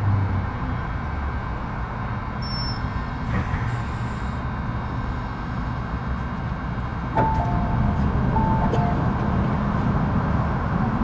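Inside a Metro Cammell M-Train (MTR urban-line EMU) at a station: steady low rumble and hum of the train's on-board equipment, with a brief hiss a few seconds in. A two-note chime sounds twice, about seven and eight and a half seconds in.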